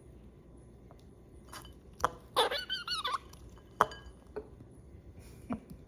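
Pet squirrel, a female in heat, giving a short warbling chatter of wavering high notes about two seconds in, with a few sharp clicks around it.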